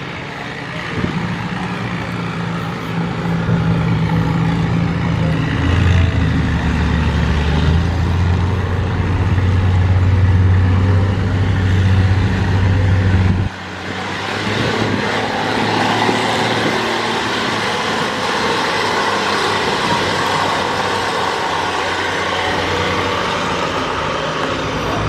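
A motor vehicle engine running with a steady low hum. The hum stops abruptly about halfway through and gives way to a broader, steady engine and traffic-type noise.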